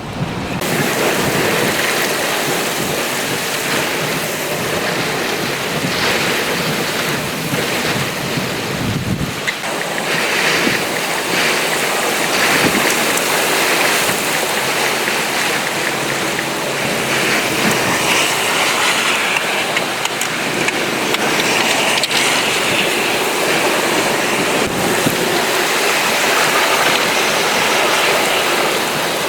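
Heavy rain driven by strong, gusting wind: a loud, steady rushing that swells and eases in waves.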